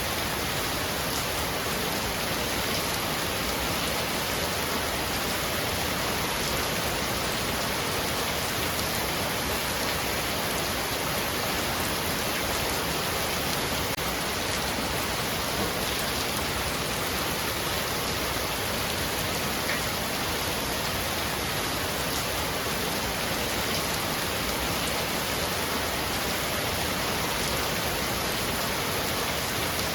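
Heavy rain falling steadily on a roof: an even hiss with a few separate drop ticks.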